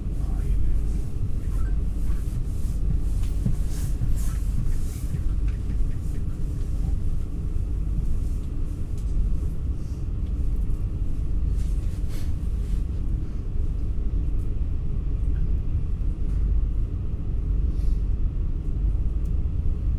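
Steady low rumble of an NS ICNG electric intercity train in motion, heard from inside the passenger carriage, with a few faint brief clicks.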